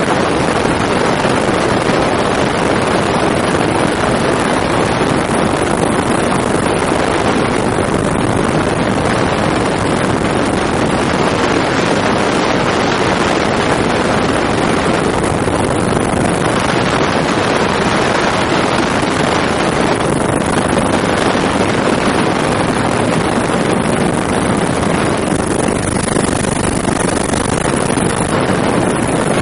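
Helicopter in flight heard from on board: a loud, steady noise of engine, rotor and rushing air, with wind on the microphone.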